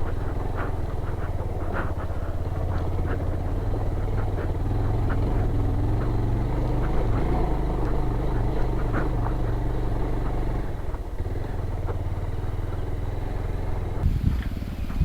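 Motorcycle engine running at a steady throttle while the bike is ridden, with scattered clicks and knocks over the top. The engine note eases off about eleven seconds in.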